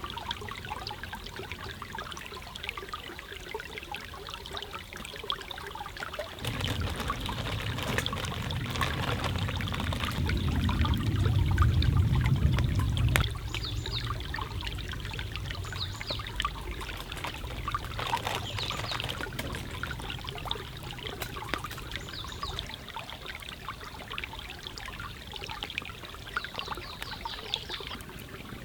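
Water trickling and flowing, with many small sharp ticks throughout. A deeper rushing swells about six seconds in and cuts off suddenly near thirteen seconds.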